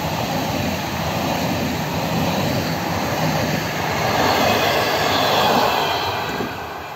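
A train of double-deck passenger cars and a tail coach rolling past on the rails: a steady rushing rumble of wheels on track that fades near the end as the last coach moves away.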